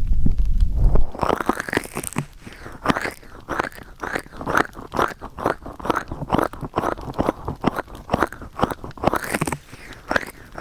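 Hands rubbing and squeezing the silicone ears of a 3Dio binaural microphone for ear-massage ASMR: a run of close, crunchy rubbing strokes, several a second. A low rumble of handling on the microphone stops about a second in.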